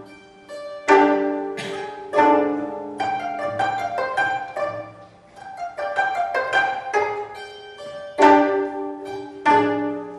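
Gayageum ensemble music: several Korean zithers plucking interlocking notes that ring and decay, with loud accented plucked chords about a second in and again near the end.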